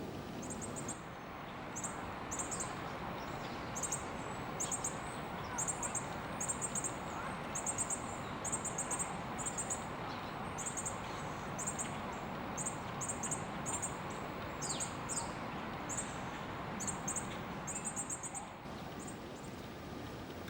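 A small songbird giving very high, thin call notes in quick runs of two to five, repeated every second or so, with a couple of falling notes in the middle, over a steady background hum.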